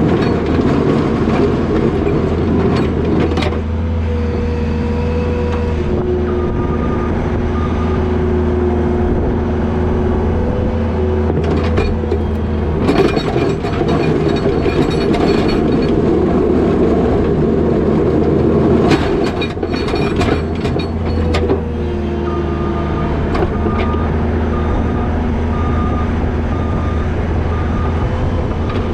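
New Holland L220 skid steer's diesel engine running steadily under load, its pitch shifting as it works. Clanks and rattles come a few times, from the machine and its box plow pushing wet snow.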